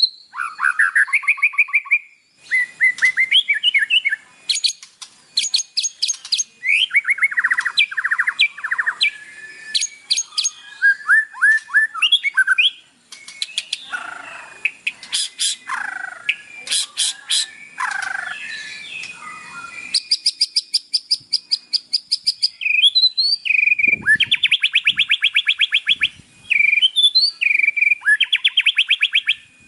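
White-rumped shama (murai batu) singing a continuous, varied song of loud whistled phrases, fast rattling trills and buzzy notes, with long runs of rapid repeated trill notes in the second half.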